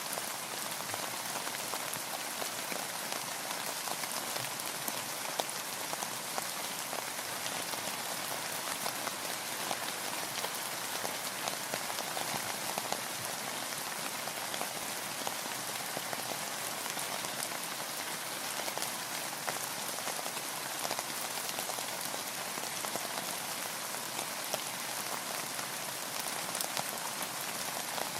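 Steady rain falling, with many small individual drop ticks over an even hiss, as heard from aboard a boat.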